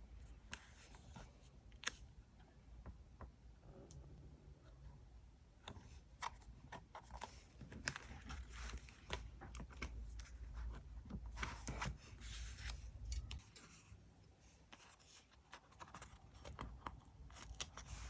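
Hands working paper and stickers for diary decorating: scattered rustles, short scrapes and light taps on the desk, busiest in the middle. A low rumble underneath stops about three quarters of the way in.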